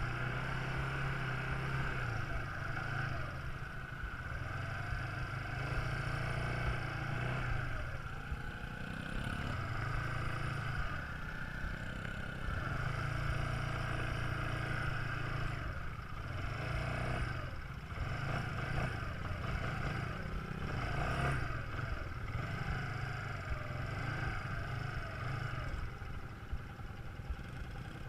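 Quad bike engine running, its note rising and falling as the throttle is opened and eased off.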